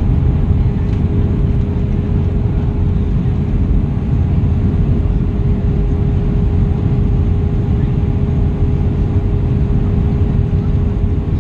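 Airbus A320 cabin noise on approach: a steady, deep rumble of engines and airflow with a constant low hum over it.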